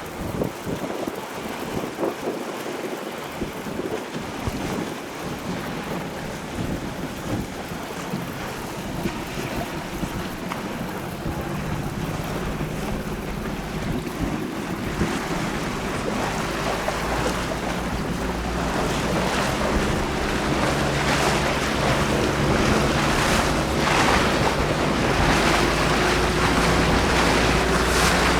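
Wind buffeting the microphone over the wash of water, with a motorboat engine hum coming in about halfway through and growing steadily louder.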